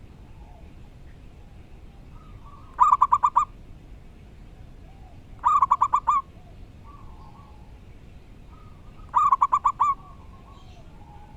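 Zebra dove (perkutut) cooing: three loud bursts of five or six quick notes each, a few seconds apart. Fainter bird calls sound in between.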